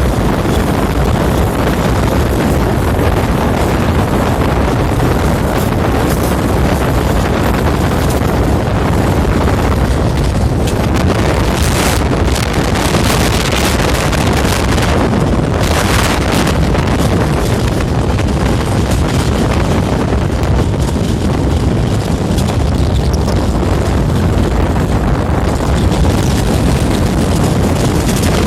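Steady, loud running noise of a moving train, with wind buffeting the microphone and a heavy low rumble; the rush brightens briefly twice, about halfway through.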